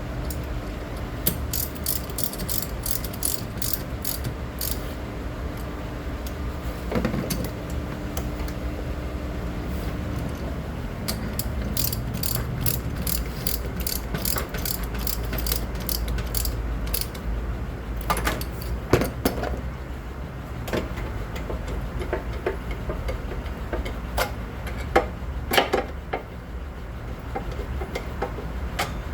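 Ratchet wrench clicking in two quick runs of several clicks a second, as a battery terminal or hold-down nut is turned. A few separate metal knocks come later, over a steady low background rumble.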